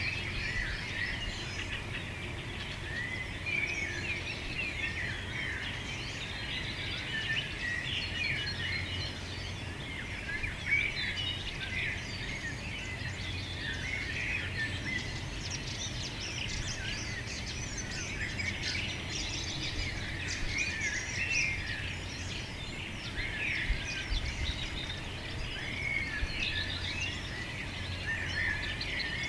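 A busy chorus of many small birds chirping and twittering continuously, over a steady low hum.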